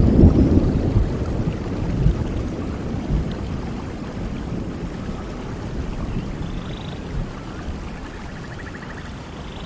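Rainstorm: rain falling steadily under a low thunder rumble that is loudest at the start and fades away over the next few seconds.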